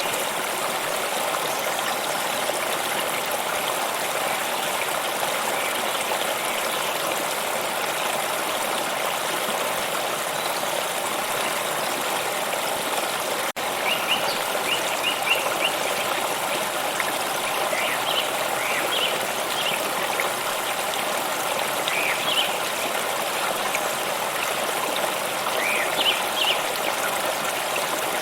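A stream of water running and trickling steadily, briefly cut by a momentary break about halfway through. Afterwards, small birds chirp faintly over the water several times.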